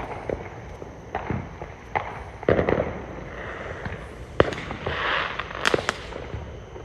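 Fireworks going off: a string of irregular sharp bangs and pops, with a crackling hiss of burning stars about five seconds in.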